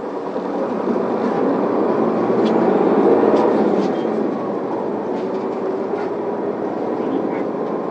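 Isuzu Erga city bus's diesel engine heard from inside the passenger cabin as the bus pulls away from a stop, growing louder over the first three seconds, then dropping back about four seconds in and running on steadily, with light rattles in the cabin.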